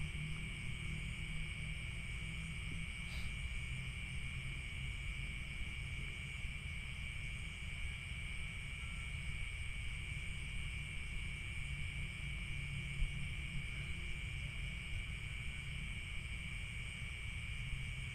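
Night-time insect chorus beside rice fields: steady, unbroken shrill trilling at two high pitches, over a steady low rumble.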